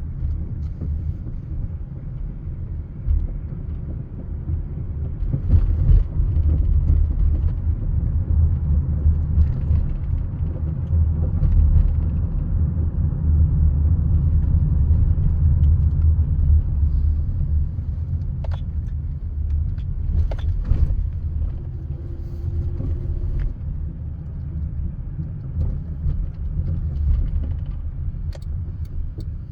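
Honda Odyssey minivan with a low rumble that swells and eases, and a few sharp clicks scattered through it. This is the noise the van makes since its rear brakes were replaced.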